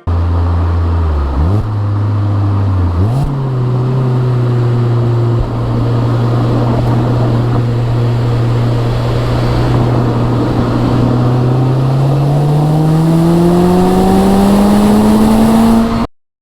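Mazda Roadster RF's 2.0-litre four-cylinder engine under way: its pitch drops and jumps back up twice in the first few seconds, holds steady, then climbs steadily over the last five seconds as the car accelerates, before cutting off suddenly.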